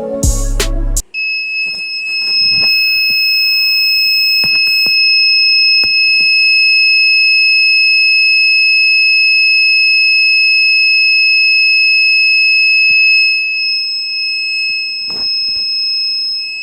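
Arduino Nano detector's buzzer sounding one steady, unbroken high-pitched tone, starting abruptly about a second in: the detector's alarm has been triggered.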